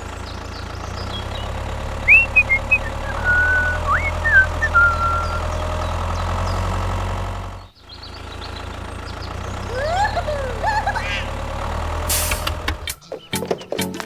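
A small engine running steadily with a low drone, broken briefly about halfway through, with short high gliding chirps over it. Near the end it gives way to sharp, rhythmic knocks.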